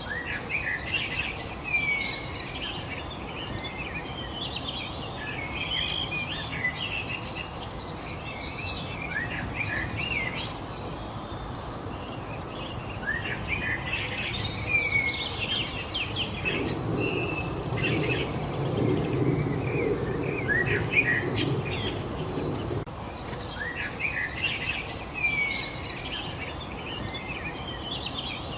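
Several songbirds chirping and trilling in quick, overlapping phrases over a steady background hiss. A low rumble runs underneath for a few seconds past the middle.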